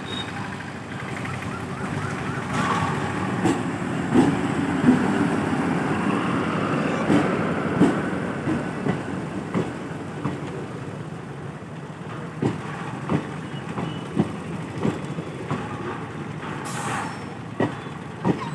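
ICF DEMU diesel multiple unit pulling out, its engine rumbling steadily while its wheels click over the rail joints in an even beat, a little under two clicks a second. A brief hiss cuts in about two-thirds of the way through.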